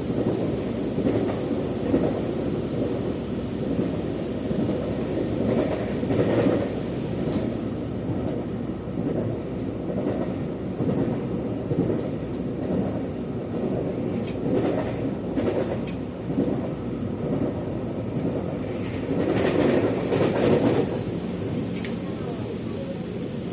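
Metro (MRT) train running on its track: a steady rumble of wheels and car noise, swelling louder a few times, most of all about twenty seconds in.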